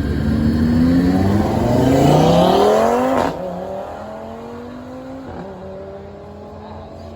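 A car accelerating hard, its engine note climbing in pitch and dropping at a gear shift about three seconds in and again past five seconds, then climbing once more. It is loudest before the first shift and quieter after it.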